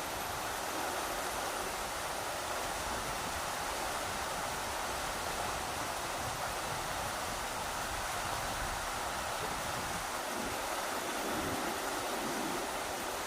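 Rushing river water with a steady, even roar, and wind gusting over it in a low, uneven rumble.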